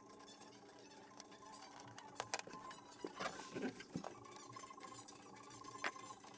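A few faint clicks and clinks, clustered about halfway through, over a steady faint hum.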